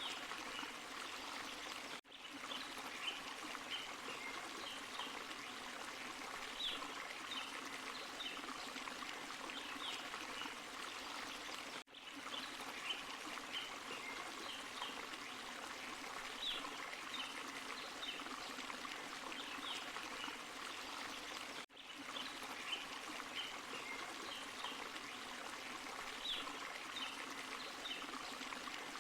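Forest stream and small waterfall: steady running water with small splashes, dropping out for a moment about every ten seconds.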